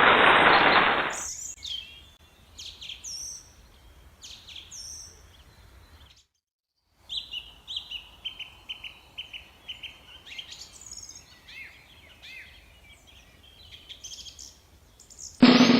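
Bird calls: scattered chirps and high, falling whistles, then a quick run of repeated notes after a brief dropout in the middle. A loud burst of noise cuts off about a second in, and another starts just before the end.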